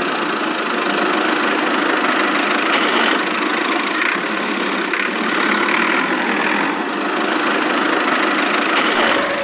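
A small motor running steadily with a dense, even buzz and no deep low end.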